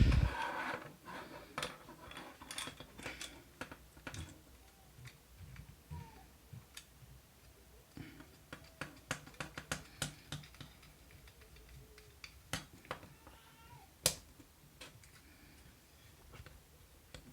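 Plastic parts of a suction-cup smartphone holder being handled and clicked together: scattered light clicks and taps, with a sharper knock about fourteen seconds in and a few faint brief squeaks.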